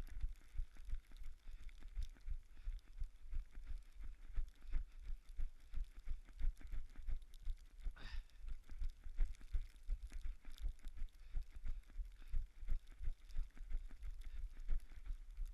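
Footsteps of a person walking through snow, picked up by a body-worn action camera as a steady run of dull thuds, two or three a second.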